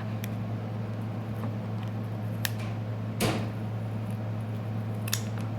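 A few light clicks and scrapes of tools prying at a Samsung Galaxy S6's glued-down battery, over a steady low hum. There are about three sharp clicks, the loudest a little past the middle.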